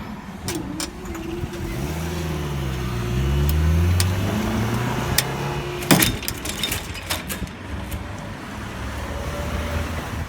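Vehicle engines running, their pitch rising and falling over each other, with a sharp clatter of knocks about six seconds in.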